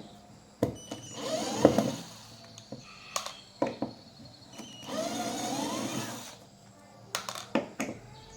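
Two short runs of a small electric motor, about a second in and again about five seconds in, each spinning up in pitch, with sharp clicks and knocks in between.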